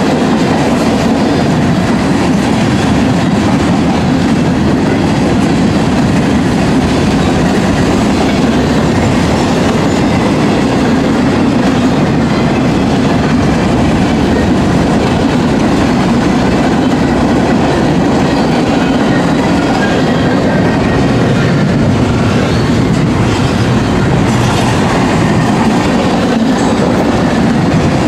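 Mixed freight cars (tank cars, flatcars, boxcars, covered hoppers) of a manifest freight train rolling past close by: a loud, steady rumble of steel wheels on the rails that holds even throughout.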